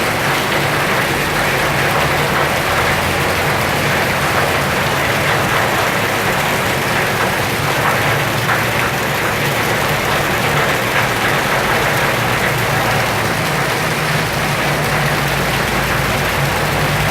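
Heavy rain falling steadily, a dense even hiss, with a low hum coming in near the end.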